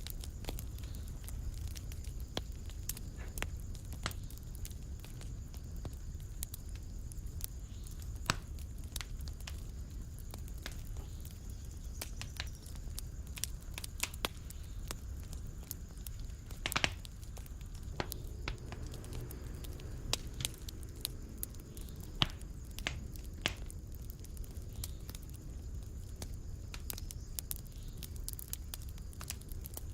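Wood fire in a fireplace crackling, with irregular sharp pops over a low steady rumble of the flames; one louder pop comes a little past halfway.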